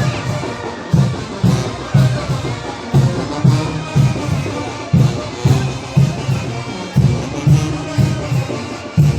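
Mexican wind band (banda de viento) playing chinelo dance music: brass carries the tune over a bass drum beating steadily about twice a second.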